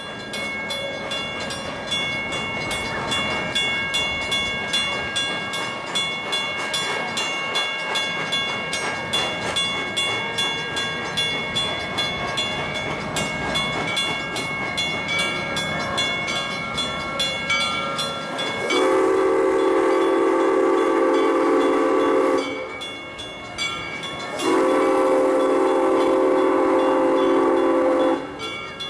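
Crown steam locomotive running past with a quick, even beat. Then come two long blasts of its steam whistle, each about four seconds, with a short gap between them.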